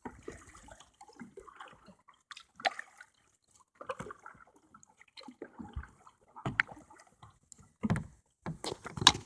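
Water sloshing and dripping around a kayak as a paddle dips in, with irregular splashes and short knocks now and then.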